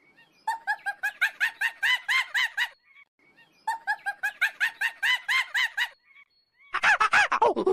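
An animal calling in rapid runs of short, evenly spaced notes, about five a second, each note rising and falling in pitch. There are three runs with short gaps between them, and the last one, near the end, is louder and drops lower in pitch.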